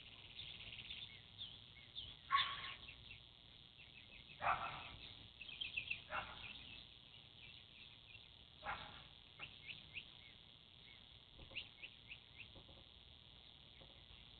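Small songbirds chirping and tweeting, with a dog barking four times at intervals over a faint steady high hiss.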